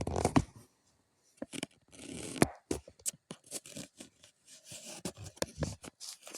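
Irregular close clicks and taps mixed with short scraping, rustling noises, with a longer scrape about two seconds in.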